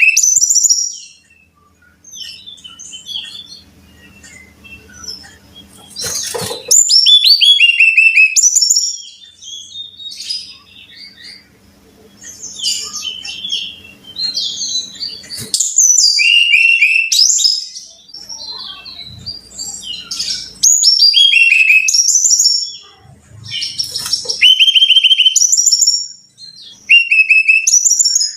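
Brown-chested jungle flycatcher singing: loud, repeated phrases of clear, quick whistled notes, many sliding downward in pitch, in runs of a few seconds with short pauses between.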